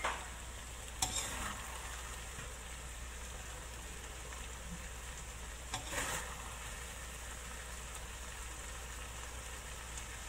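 Coconut curry with tofu sizzling steadily in a wok. A spatula stirs it, scraping and knocking against the pan about a second in and again about six seconds in.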